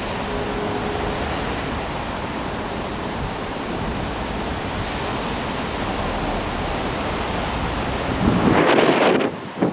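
A train passing through the station: a steady, loud rush and rumble of wheels and air, with a louder surge of rushing noise near the end.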